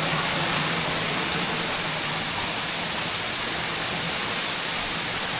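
Steady, even rush of falling water, as from a waterfall.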